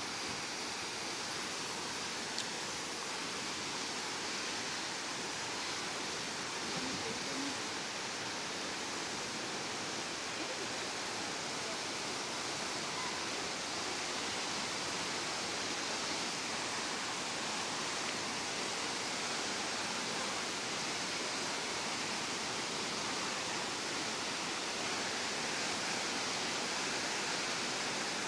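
Steady rush of falling water from a waterfall about 45 m high, an even, unbroken noise of water.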